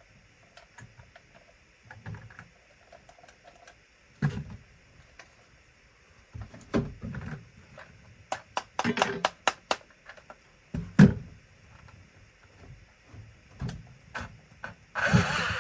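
Vintage toy remote-control car's motor and gearbox running in short, uneven spurts with clicking and knocking, which the owner takes for a slipping gear or a bad ground.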